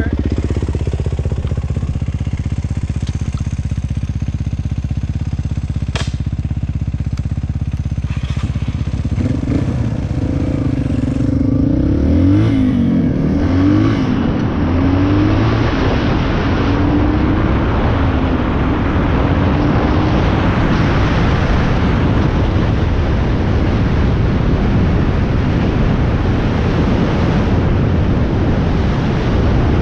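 Dirt bike engine running steadily, then revving up and falling back several times as it pulls away through the gears. From about halfway it is drowned by wind rushing over the microphone as the bike picks up speed.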